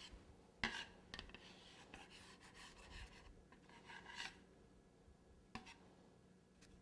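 A kitchen knife cutting and scraping through carved cake, giving faint rasping strokes, with a sharp tap about half a second in and another tap later on.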